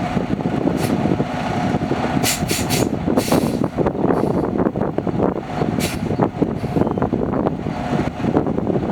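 2017 Freightliner Cascadia tractor truck's diesel engine running steadily, with a few short air hisses about two to three seconds in and again around six seconds.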